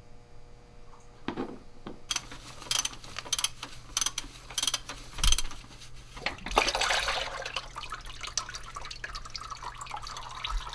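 Old engine oil draining into a drain pan: a series of clicks and knocks, then the oil stream splashing steadily in the pan from about halfway in.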